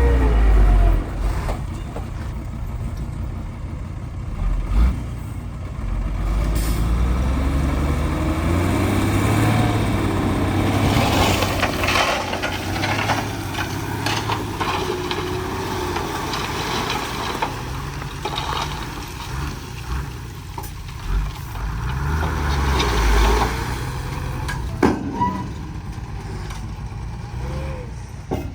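Heavy diesel machinery running, its engine note rising and falling as it works, with a few sharp knocks.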